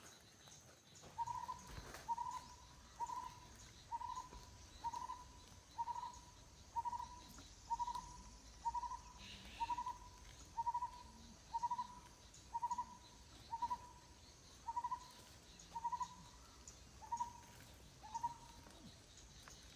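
A bird repeating one short, hollow, pitched note very evenly about once a second, some eighteen times, then stopping near the end.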